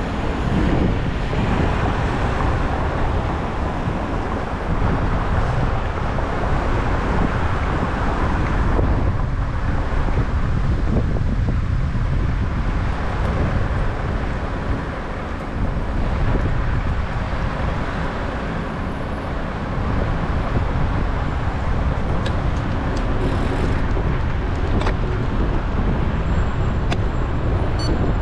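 Steady wind rush over a bike-mounted action camera's microphone, mixed with road and tyre noise, while riding a road bike.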